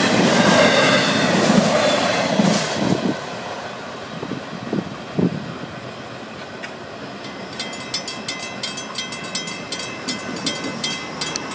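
Last cars of a Florida East Coast Railway freight train rumbling and clattering over the crossing with some wheel squeal, fading away after about three seconds. From about seven seconds in, the grade-crossing bell rings in an even rhythm of about three strikes a second while the gate arms rise.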